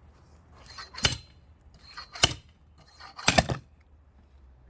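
Three sharp metal-on-metal strikes about a second apart, the last one doubled, each with a brief ring. This is axe work on a log that has the first axe blade stuck in its middle, freed with the second splitting axe.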